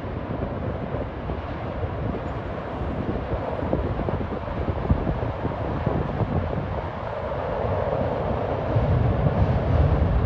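Train running across a steel truss railway bridge, heard from a distance as a low, steady rumble that grows louder over the last few seconds.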